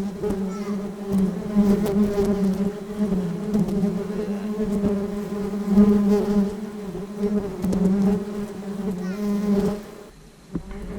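A flying insect buzzing close by with a steady hum that wavers a little in pitch and loudness, stopping shortly before the end.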